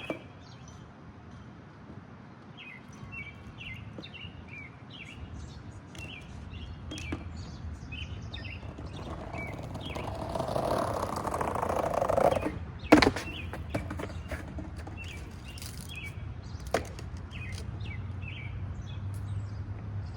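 Small birds chirping throughout. About halfway through, a rolling noise builds for a few seconds, like skateboard wheels on pavement, then stops with a sharp loud crack of the board hitting the ground; a smaller knock follows a few seconds later.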